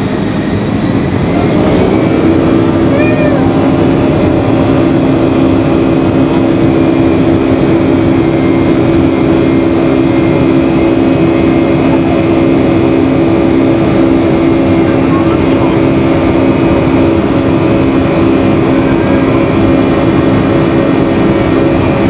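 Boeing 757-300's jet engines heard from inside the cabin: a loud, steady rumble with a droning hum that swells about a second in and then holds.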